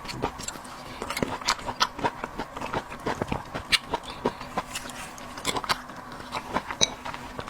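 Close-miked eating: irregular wet chewing, smacking and mouth clicks.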